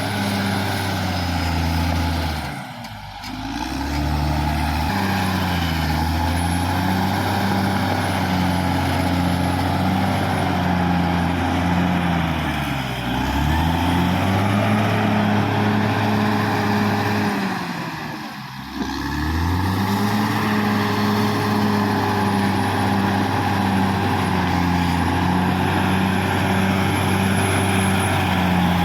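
Caterpillar D6R XL bulldozer's diesel engine running hard. Its note drops and picks back up three times: about 3 seconds in, around 13 seconds, and again around 18 seconds.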